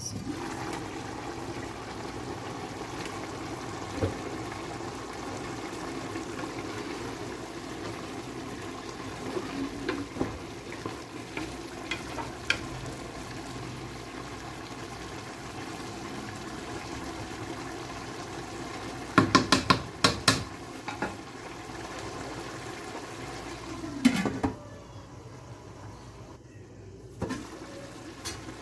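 Steady sound of water in a cooking pot, with a quick run of sharp clinks about nineteen seconds in and one more a few seconds later, after which it goes quieter.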